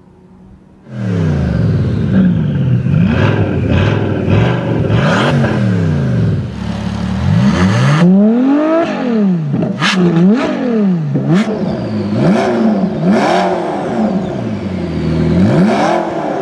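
High-performance car engines revving hard, starting about a second in. The pitch climbs and drops again and again, with sharp exhaust cracks in between.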